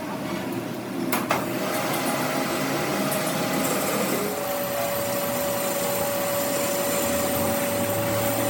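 A motor-driven workshop machine running steadily, with a sharp knock about a second in and a steady whine joining about four seconds in.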